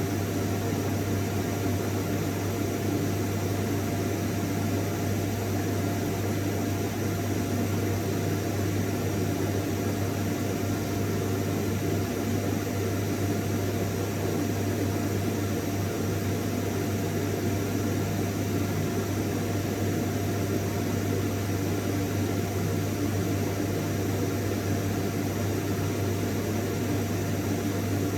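Vacuum cleaner motor running steadily: a constant low hum under a whooshing hiss of airflow, with a faint steady whine.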